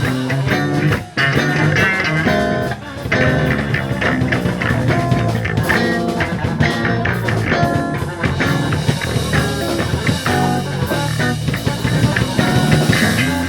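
Reggae band playing without vocals: electric guitar, bass guitar and drum kit.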